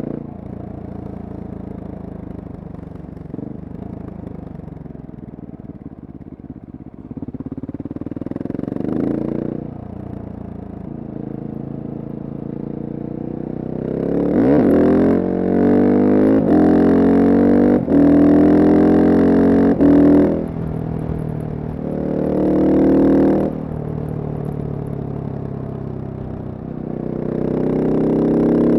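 Single-cylinder Husqvarna supermoto engine under way: it runs at an even, low note at first, then about halfway through it accelerates hard through several gears, the pitch climbing and dropping at each shift, eases off, gives a short burst, and pulls again near the end.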